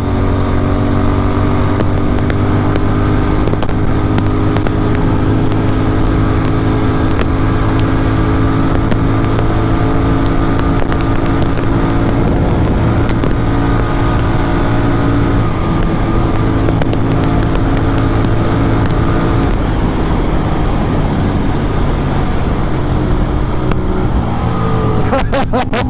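Sport motorcycle fitted with an SC Project aftermarket exhaust, running at a steady cruise. The engine note holds nearly level, shifting slightly in pitch about halfway through and again a few seconds later.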